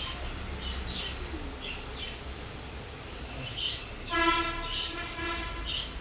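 Small birds chirping, short high calls every second or so. About four seconds in, a horn sounds once, a steady single-pitched tone lasting about a second and a half, louder than the chirps.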